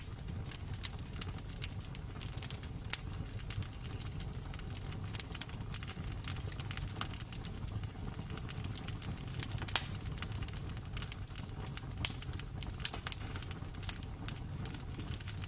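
Wood fire crackling in a fireplace: irregular sharp pops and snaps over a steady low rumble, with two louder pops in the second half.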